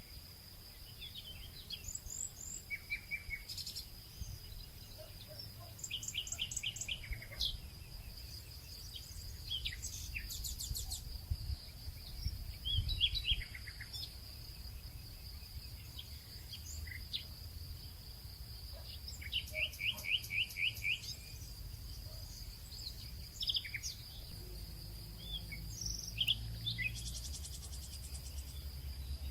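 Several birds chirping and singing short trilled phrases, over a steady high insect drone and a low rumble underneath.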